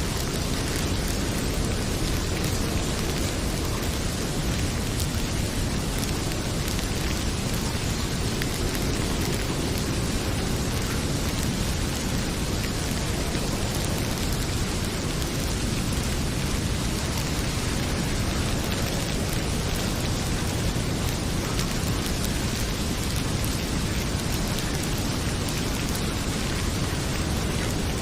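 Heavy rain pouring steadily, with a few faint pops from a crackling wood fire.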